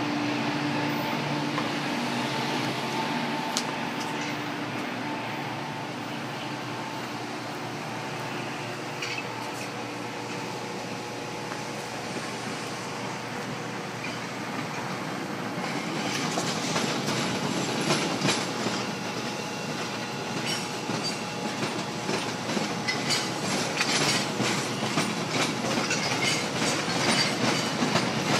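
Metra commuter train approaching and passing the platform: a steady rail rumble grows louder about halfway through, then wheels click rapidly and rhythmically over the rail joints as the cars go by.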